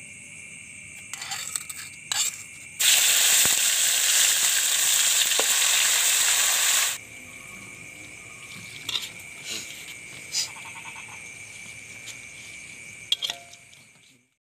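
Eel frying in hot oil in a wok: a loud sizzle starts suddenly about three seconds in and stops abruptly about four seconds later. Crickets trill steadily underneath, with a few short clicks and taps.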